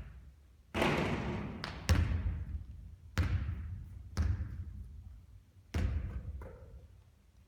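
Basketball hitting the court about six times at uneven intervals, each impact echoing briefly.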